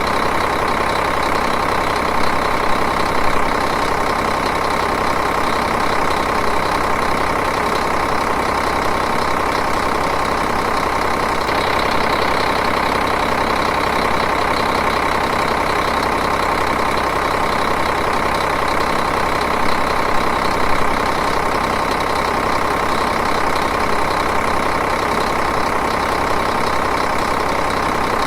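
Diesel engine idling steadily, an even, unchanging engine sound.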